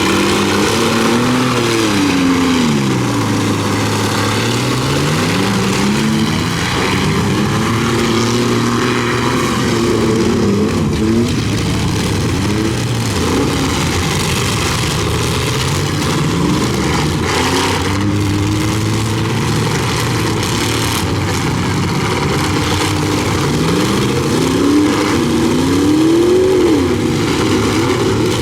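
Several demolition derby pickup trucks' V8 engines revving hard, their pitch rising and falling repeatedly and overlapping as the trucks drive and ram each other.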